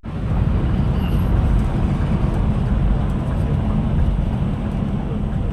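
Steady low rumble of a Scania Metrolink multi-axle bus under way, engine and road noise heard from inside the cabin.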